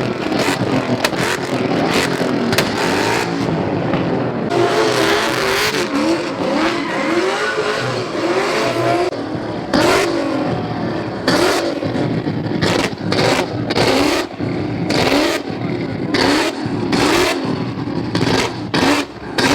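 A car engine revved over and over, its pitch swinging up and down. From about halfway in, a rapid run of loud, sharp exhaust pops and bangs.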